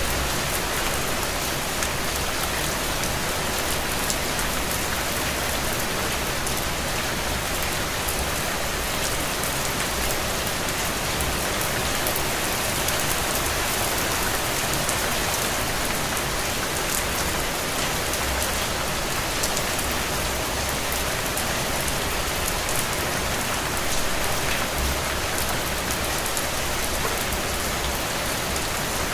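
Steady rain pattering on a window, an even dense hiss of many fine drop taps.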